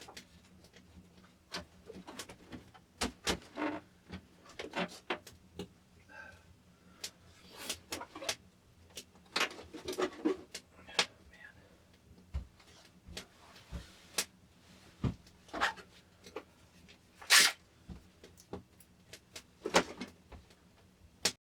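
Irregular knocks, clicks and scrapes of objects being handled, the loudest about 17 seconds in.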